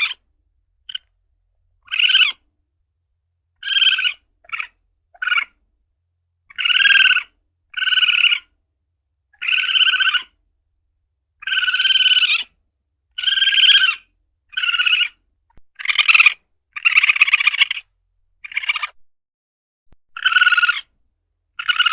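Asian palm civet (luwak) calling: a series of short pitched calls, one every second or so, with silence between them.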